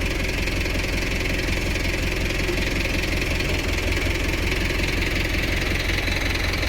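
Mahindra tractor's diesel engine running steadily as it is driven on through soft, poor soil.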